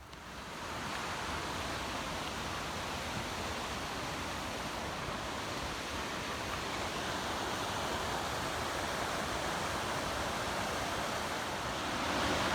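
Rushing mountain creek: a steady, even rush of running water that swells in over the first second.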